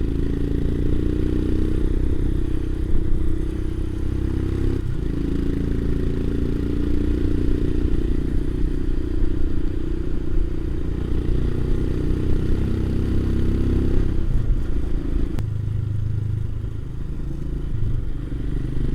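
Motorcycle engine running steadily under way, with a brief break in its note about five seconds in and a drop to a lower, deeper note about fourteen seconds in.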